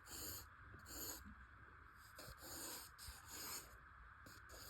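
Faint scratching of a drawing tool on paper: about six short sketching strokes in a row.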